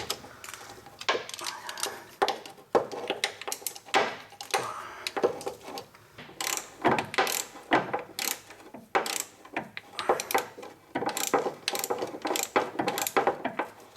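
Hand ratchet with a deep socket clicking in short runs of strokes, tightening the lock nut on a parking brake cable tensioner.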